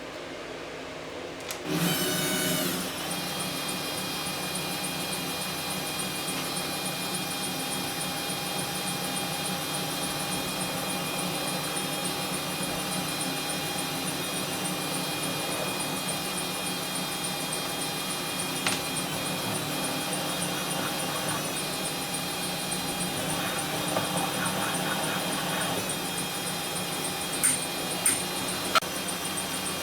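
A power tool motor spinning up with a rising whine about two seconds in, then running steadily, with a few sharp clicks near the end.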